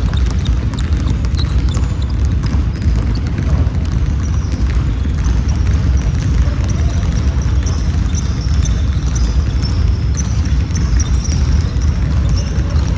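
Sounds of a basketball game on a gym court: a ball bouncing and many short high squeaks over a steady low rumble.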